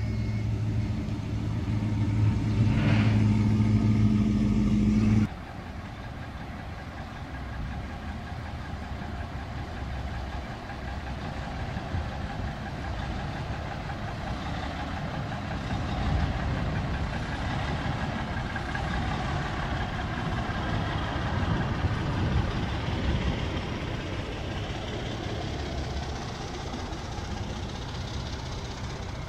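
A classic car's engine rumbles steadily as a red fastback muscle car rolls slowly past. The sound cuts off abruptly about five seconds in. After that, a vintage semi-tractor truck and then a 1950s Ford Thunderbird drive by at low speed, their engines rising and fading as each passes.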